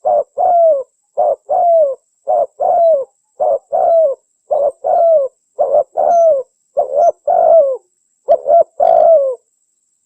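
Spotted dove cooing loudly and steadily. Each phrase is a short coo followed by a longer coo that falls in pitch, repeated about once a second, and the calling breaks off near the end. This is the tekukur call used as a lure to attract other spotted doves.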